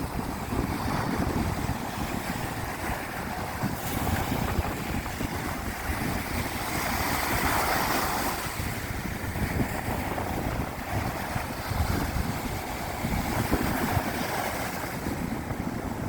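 Ocean surf breaking and washing up a beach, with wind rumbling on the microphone. One wave swells loudest about seven seconds in.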